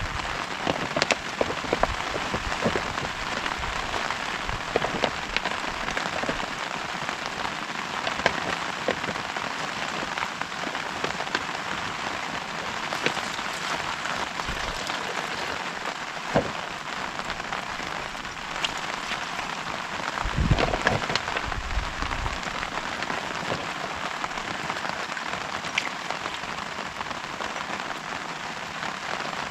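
Heavy rain falling steadily, a dense hiss with many sharp drop impacts ticking through it. A brief low rumble comes about twenty seconds in.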